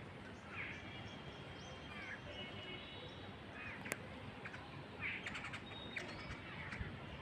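Birds calling: short, harsh calls repeated every second or so over steady outdoor background noise, with one sharp click a little past the middle.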